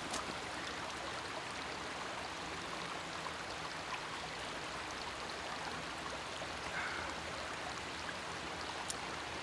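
Steady rushing of running water, even and unbroken, with a single short click near the end.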